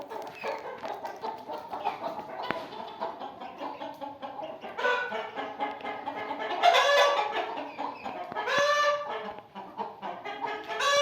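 Aseel chickens clucking steadily, with two louder drawn-out calls from a bird, the first about six seconds in and the second near the nine-second mark.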